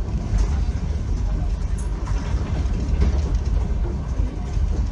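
Russian passenger train carriage heard from inside while the train is moving: a steady, loud low rumble from the wheels and running gear on the rails.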